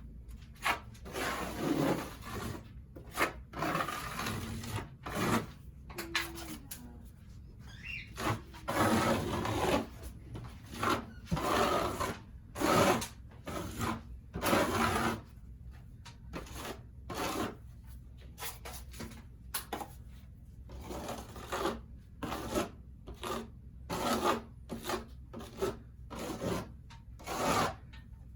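Hand tool scraping against a textured drywall ceiling in repeated, irregular rasping strokes, about one or two a second, with short pauses between runs and a brief squeak about six seconds in.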